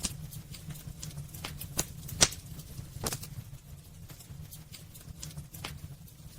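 Wood fire burning in a fireplace, crackling with irregular pops and snaps over a low steady rumble of the flames; the sharpest pop comes about two seconds in.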